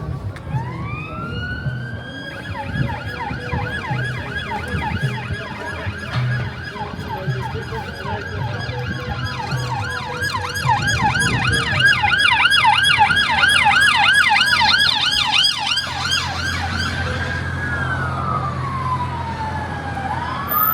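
Emergency vehicle siren passing: a slow rising wail that switches to a fast yelp of about three sweeps a second, then drops back to a slow falling and rising wail near the end, over low traffic noise.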